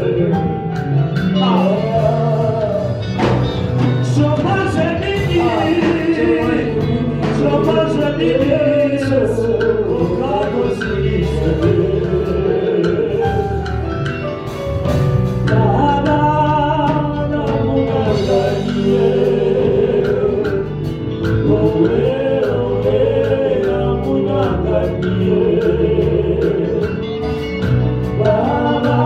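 Gospel worship song: voices singing over a band with steady bass notes and a regular beat.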